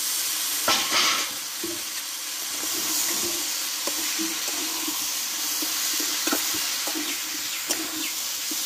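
Mixed vegetables sizzling as they fry in hot oil and spice paste in a metal wok, with a metal spatula scraping and clinking against the pan as they are stirred; a couple of louder knocks about a second in.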